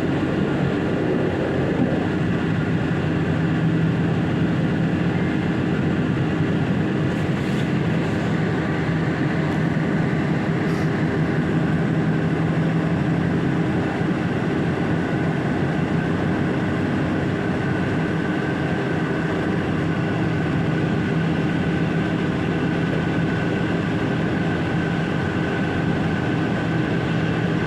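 Intercity passenger train running steadily on the rails, heard from the back of the train: an even rumble of wheels on track with a steady hum that grows a little stronger after the middle.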